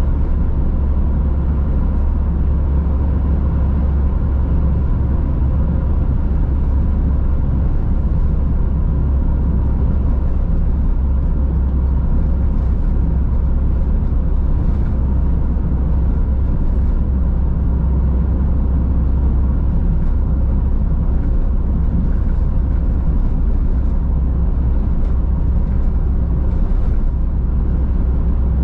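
Car driving at a steady speed, heard from inside the cabin: an unbroken loud low road-and-tyre rumble with a faint steady hum, and a few faint small ticks now and then.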